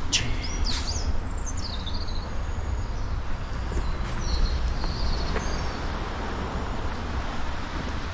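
Small birds chirping in short, quick whistled phrases, a burst at the start and more around halfway, over a steady low rumble.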